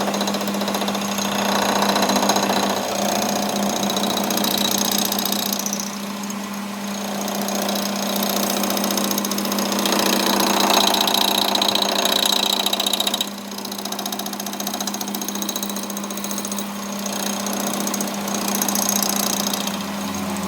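Metal lathe running with a steady hum and a fast, even rattle, as metal is cut; the higher cutting noise swells and fades several times.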